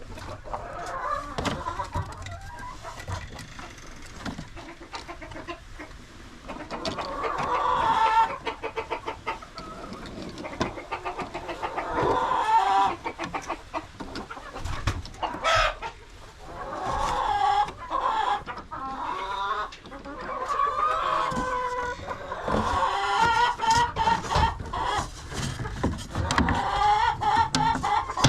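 A flock of chickens clucking and calling in short repeated bursts, with occasional sharp clicks and knocks mixed in.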